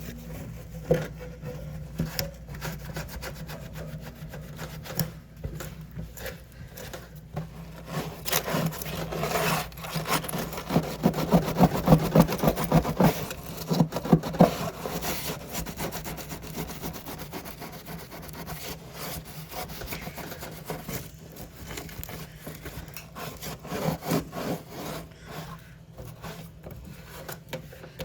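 Scrubbing and scraping inside a mini fridge: quick, irregular rubbing strokes that are loudest and fastest around the middle.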